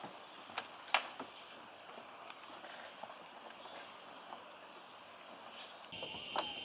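Rainforest insect chorus as a steady high-pitched drone, with scattered crackles and snaps of footsteps on dry leaf litter, the loudest about a second in. Near the end the chorus changes abruptly and a louder steady insect buzz comes in.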